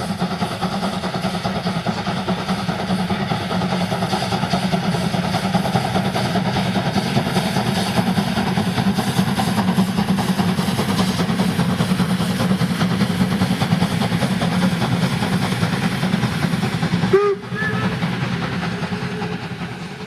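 A railway locomotive running under steady load, a loud, continuous sound. Near the end it breaks off abruptly, a few short gliding tones follow, and the sound fades out.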